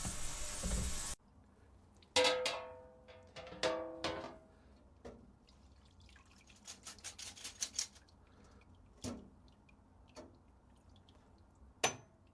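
Aerosol spray paint hissing from a can, cutting off suddenly about a second in. Then come two ringing metallic clinks, a quick run of light clicks, and a few separate knocks.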